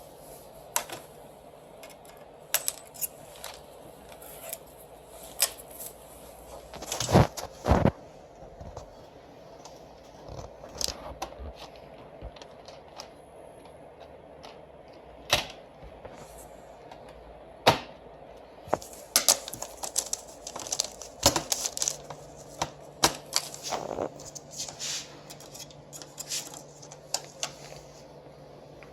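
Irregular clicks, taps and light clatter of plastic and metal parts being handled as a Konica Minolta bizhub C284e fuser unit is taken apart by hand. The loudest knocks come about seven seconds in, and the clicking gets busier over the last ten seconds.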